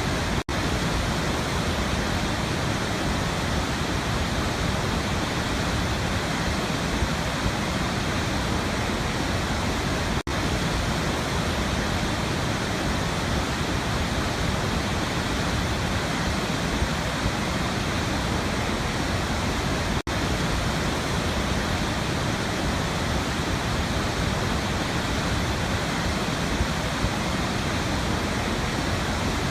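Waterfall: steady, unbroken rushing of falling water, with short dips in level about every ten seconds.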